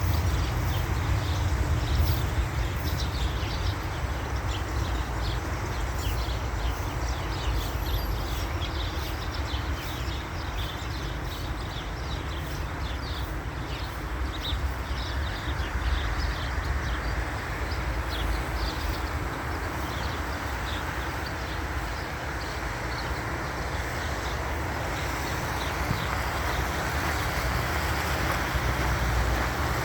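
Steady low rumble of wind on the microphone, with many short chirps and calls from a flock of birds over it, thinning out in the last third.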